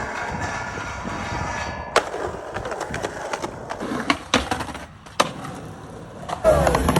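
Skateboard wheels rolling on concrete, with sharp board clacks and landings about two, four and five seconds in. Near the end, music with a heavy bass line comes in loudly.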